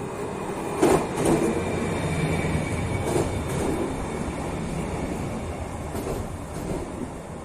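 EN75 electric multiple unit passing, its wheels knocking over rail joints in pairs, one pair about a second in and another a little after three seconds, over a steady running noise with a faint whine.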